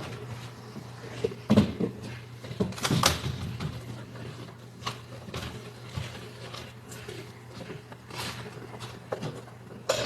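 Scattered knocks and clunks of hands handling and shifting parts inside a car, with a steady low hum underneath. The loudest knocks fall about one and a half and three seconds in.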